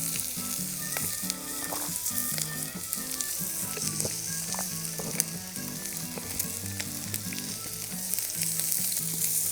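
Chicken sizzling hard on a Yokozawa steel griddle plate over a Swedish torch fire, a steady hiss with scattered pops. It is cooking at full heat, since the fire cannot be turned down.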